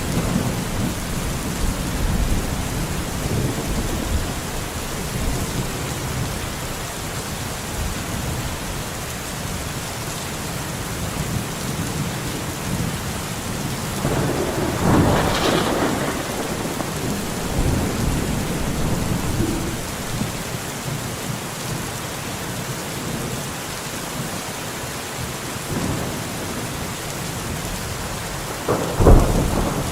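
Steady rain falling in a forest, an even hiss with a low rumbling undertone. Two louder sudden surges break through it, one about halfway through and one just before the end.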